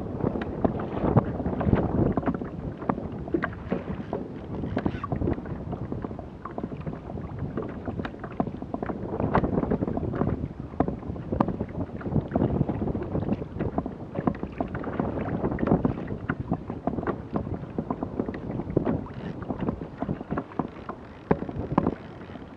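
Water lapping and slapping against a kayak hull in irregular splashes and knocks, with wind buffeting the microphone.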